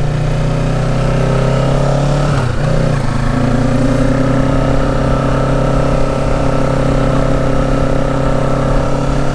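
2023 Kawasaki Ninja 650's parallel-twin engine running steadily under way, with a brief dip in the engine note about two and a half seconds in before it settles back to a steady drone.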